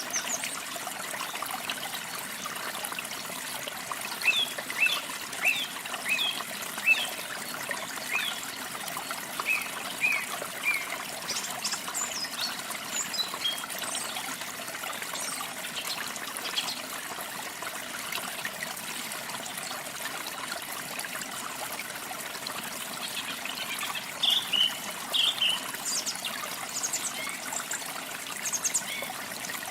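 Water trickling steadily, with small birds chirping over it: a run of quick chirps from about four to ten seconds in, a few higher ones after that, and another cluster near the end.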